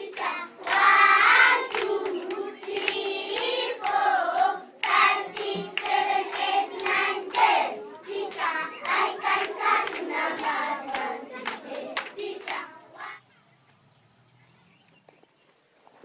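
People singing together with regular hand clapping; the song stops about thirteen seconds in.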